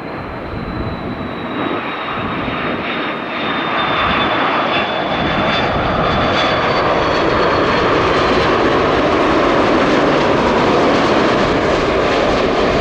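A widebody jet airliner on final approach passes close by: a loud, steady jet roar that builds over the first few seconds, with a high engine whine that slowly drops in pitch.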